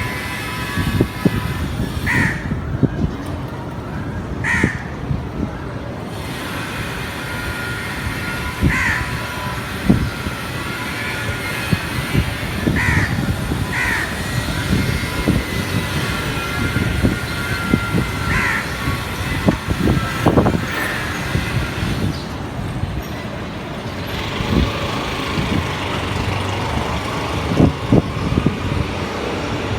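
Crows cawing, single short caws every few seconds, over a steady background of traffic-like noise with scattered knocks.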